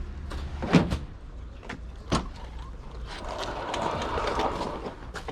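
A few sharp knocks and clatters over a steady low rumble, the loudest knock just under a second in, with a brief rushing noise midway through.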